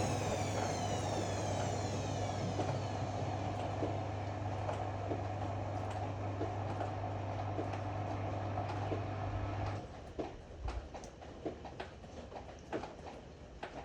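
Ariston AML125 washer-dryer drum motor winding down, with a steady hum under a whine that falls in pitch. About ten seconds in the hum cuts off, and light clicks and ticks follow.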